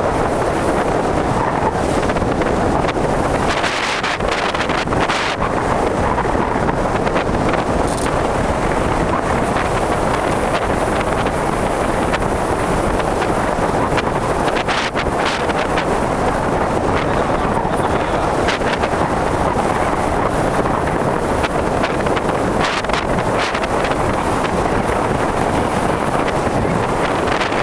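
Strong wind blowing across the microphone: a loud, steady rush with occasional brief crackles.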